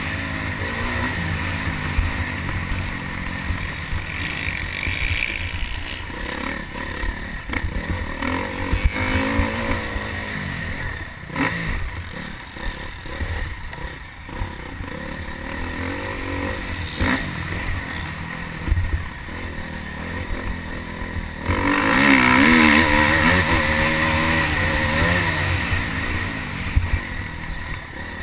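Motocross bike engine revving up and down as it is ridden around the track, getting noticeably louder for a while from about three-quarters of the way through.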